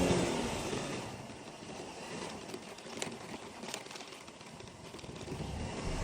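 Tank 200 scooter's engine easing off from cruising as it slows, settling low with a few light clicks, then picking up again near the end.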